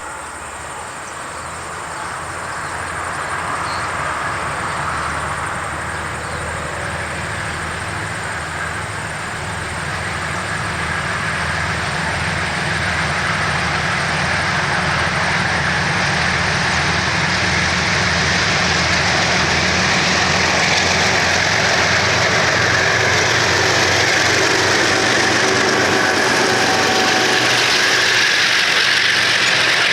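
Diesel train approaching: a low engine hum and the rush of wheels on rail, growing steadily louder as it nears.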